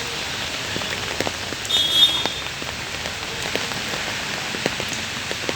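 Heavy rain falling on hard surfaces: a steady hiss with scattered drop taps. About two seconds in, a brief high-pitched tone sounds over the rain.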